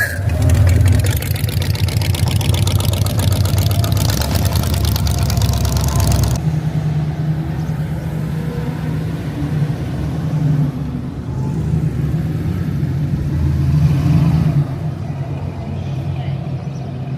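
Car engine running, a loud rapid-pulsing rumble that changes abruptly about six seconds in to a quieter, steadier hum.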